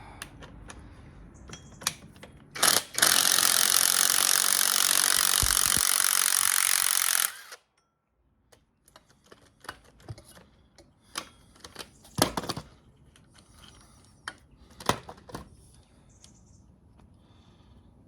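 A power tool runs loudly and steadily for about four seconds, then cuts off suddenly. Scattered clinks and knocks of hand tools on metal come before and after it, as bolts come off an engine's power steering pump.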